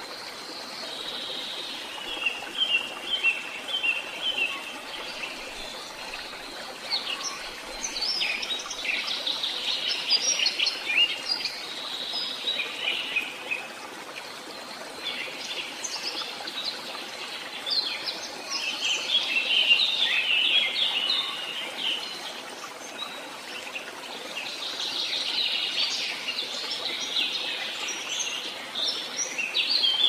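Birdsong: small birds chirping and twittering in rapid bursts that swell and fade every few seconds, over a steady background hiss.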